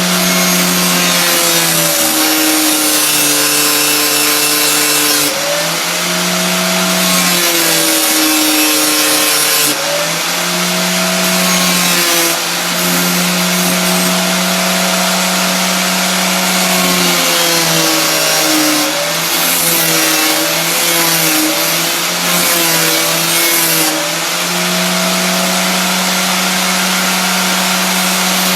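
Electric grinder with an 80-grit wheel running while a forged steel hook-tool blank is ground on it: the motor's hum sags in pitch each time the steel is pressed to the wheel and recovers as it eases off, over a steady grinding hiss.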